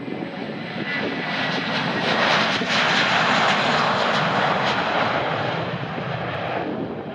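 Airbus A320 jet engines at takeoff power, a broad roar that swells as the aircraft passes and then fades away.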